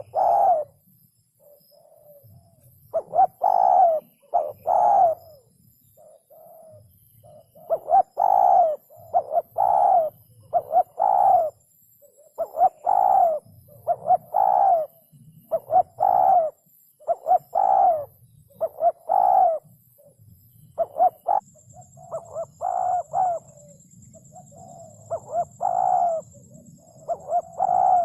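Spotted dove cooing: short low coo notes repeated in close groups of two or three, one group every second or two.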